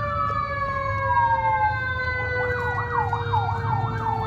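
Emergency vehicle sirens going by: several held siren tones sliding slowly down in pitch, one dropping away about a second in, then a fast up-and-down yelp starting about two seconds in, over a low engine rumble.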